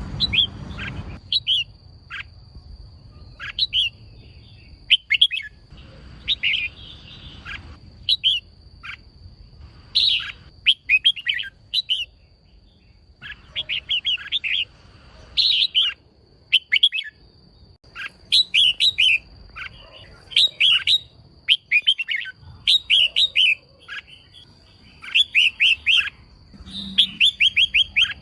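Female red-whiskered bulbul calling: short, sharp chirping notes in clusters every second or two, some in quick runs of four to six, over a faint steady high whine.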